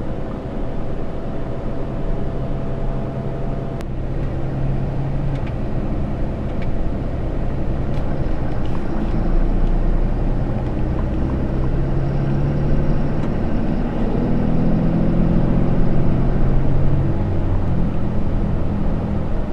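6.7-litre Cummins inline-six turbo diesel of a Ram 3500 pickup running under way, with road noise. The engine note shifts pitch a few times and gets louder in the second half.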